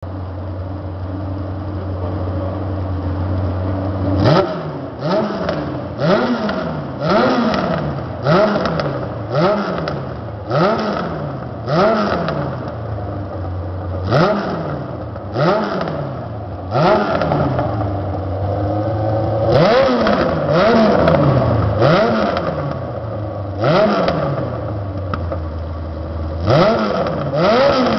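Motorcycle engine idling, then revved in quick throttle blips starting about four seconds in. Each blip rises sharply and falls back toward idle, roughly one a second, in three runs separated by short spells of idle.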